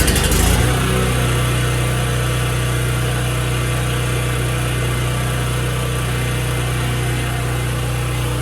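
Portable dual-fuel generator's engine running on propane, settling within the first second into a steady, even run.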